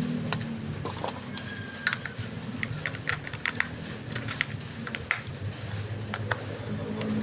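Hands handling a plastic toy RC car and its packaging: a run of light, irregular clicks and taps.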